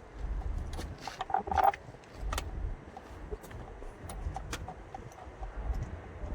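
Hand tools clicking and clinking on metal in irregular taps, over a low rumble, with a brief squeak about a second and a half in.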